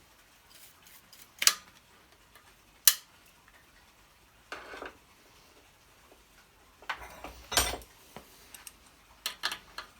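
Small metal parts and hand tools clicking and clinking against the generator's engine metal as its ignition points are worked. There are two sharp clicks early on, a short scrape in the middle, and a run of lighter clicks near the end.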